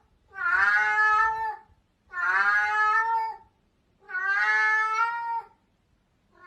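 Domestic cat meowing: three long, drawn-out meows about a second apart, each rising slightly and then falling away.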